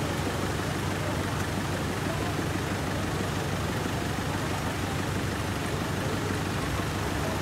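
A vehicle engine running steadily, a low even hum over a constant hiss.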